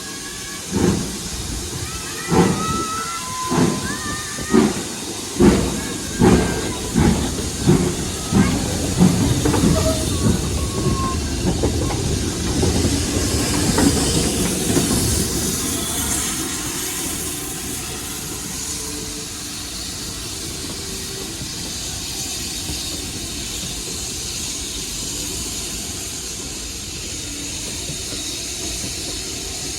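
Steam locomotive pulling away: sharp exhaust beats, about a second apart at first, come quicker and quicker as it gathers speed, then blend into a steady rush of exhaust and running noise that slowly fades.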